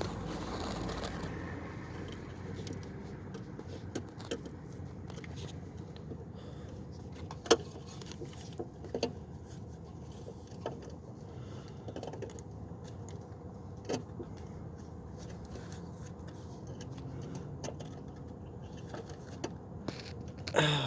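Scattered small metallic clicks and scrapes of hand tools working on car parts, a few sharper clicks standing out, over a steady low background hum.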